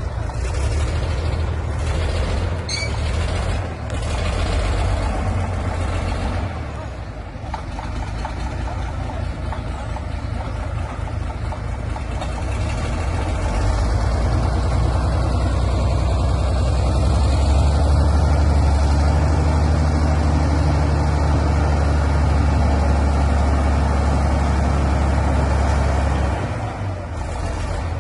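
Heavy tractor diesel engine running, growing louder and steadier about halfway through as it works harder, then easing off shortly before the end.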